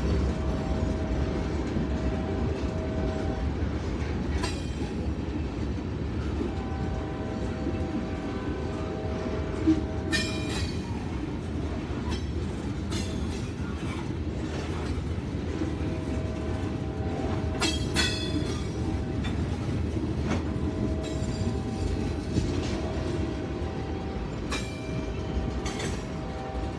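Kansas City Southern train cars rolling past with a steady low rumble. A thin metallic ringing comes and goes over it, and there are occasional sharp clanks from the cars.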